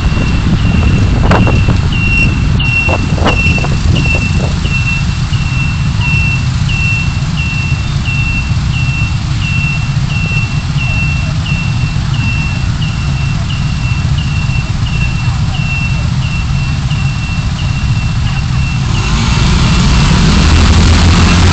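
Low, steady rumble of a car driving slowly, with a short high electronic beep repeating evenly a little under twice a second. The beeping stops about 19 seconds in, and then the road noise grows louder.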